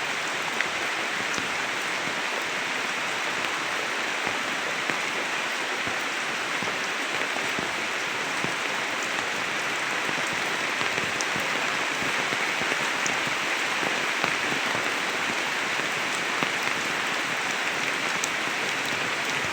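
Steady rain falling on a banana plantation, with faint scattered ticks of drops.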